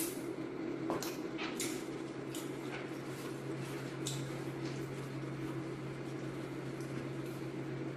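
Close-up chewing of crispy fried chicken, with a scatter of crisp crunches and crackles over the first few seconds that thin out later. A steady low electrical hum runs underneath.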